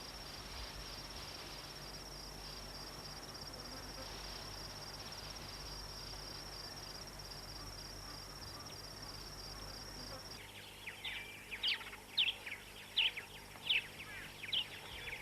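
A steady, high-pitched insect trill of savanna ambience. About ten seconds in it cuts off and a run of short, sharp bird chirps follows, several a second.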